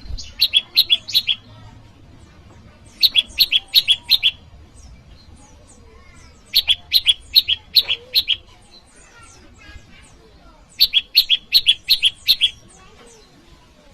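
A prenjak lumut singing: four bursts of rapid, high chirps alternating between two pitches, each burst about 1.5 to 2 seconds long with a few seconds' pause between. It is the bird's rival-challenging call, the kind used to lure wild prenjak and to train caged birds.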